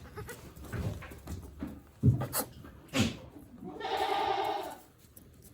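A goat bleats once near the end, a wavering call of about a second. A couple of sharp knocks and some soft rustling come before it.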